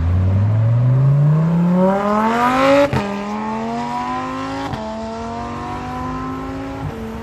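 Lamborghini accelerating hard away from a standstill. The engine note climbs steadily, then drops sharply at an upshift about three seconds in, climbs again and shifts once more near five seconds, then pulls on at a steadier pitch.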